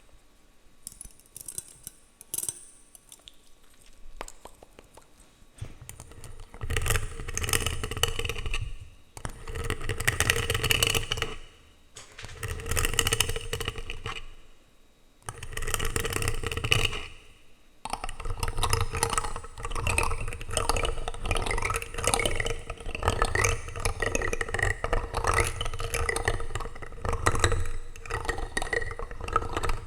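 Plastic utensils scraping and rubbing directly on a microphone, with a scratchy rustle and a low rumble from the contact. After a few faint taps, it comes in bursts of about two seconds separated by short pauses, then runs on without a break for the last twelve seconds or so.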